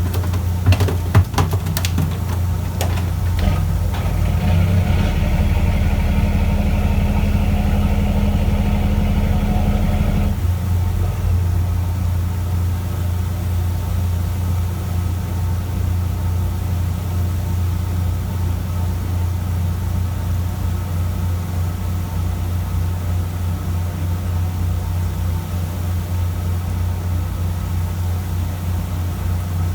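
Fishing boat's engine running steadily with a loud low hum. A few sharp knocks come in the first few seconds, and about four seconds in a second, brighter mechanical noise joins, cutting off suddenly about ten seconds in.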